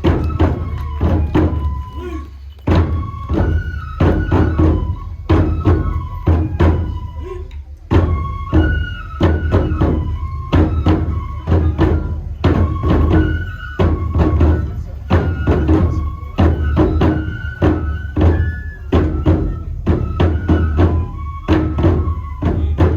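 Traditional nenbutsu kenbai music: a big drum beating a steady rhythm with a high, stepping melody line held over it.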